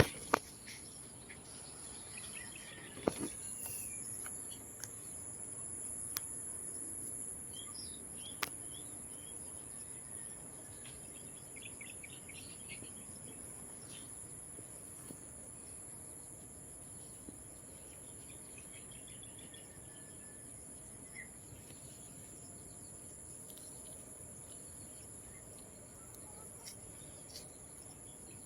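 Steady high-pitched drone of a chorus of insects, with a few short bird chirps now and then and some sharp clicks near the start and about eight seconds in.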